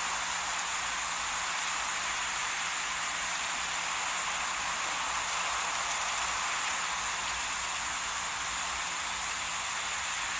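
Steady, even hiss with a faint low hum underneath and no distinct events.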